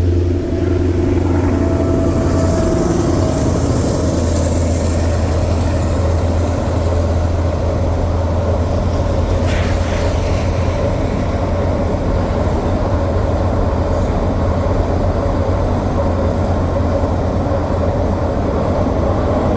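Diesel train on the railway line running through, a steady low rumble that holds unchanged throughout.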